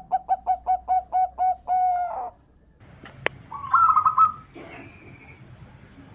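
Zebra dove (perkutut) singing: a quick run of about nine short, evenly spaced coo notes ending in a longer drawn-out note. After it there is a sharp click, then a higher warbled call in the middle and a fainter one near the end.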